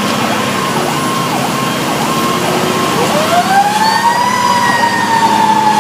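Fire truck sirens heard from the cab of a Pierce Arrow XT aerial ladder truck running with lights and siren. An electronic siren cycles in quick dips about twice a second. About halfway through, a second siren winds up into a rising wail that peaks and then slowly falls. The truck's engine drones steadily underneath.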